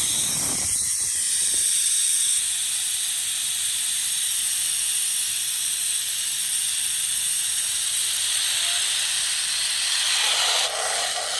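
Zip-line trolley pulleys running fast along the steel cable: a steady high hiss that drops off near the end.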